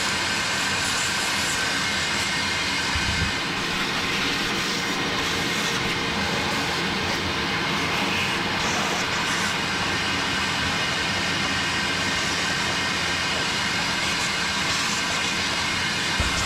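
Vacuum cleaner running steadily with a constant motor whine, sucking caked grass and debris out of a riding mower's engine.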